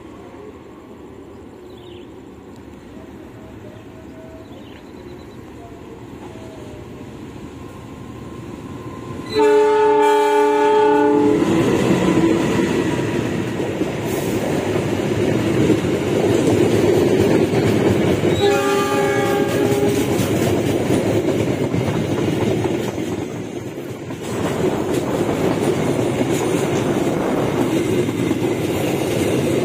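A diesel-hauled passenger train approaching and passing slowly through a speed restriction. The sound grows gradually. About nine seconds in, the locomotive's horn sounds a chord in a two-second blast, and near twenty seconds it gives a shorter second blast. After the first blast, the locomotive and then the coaches' wheels go by steadily and loudly.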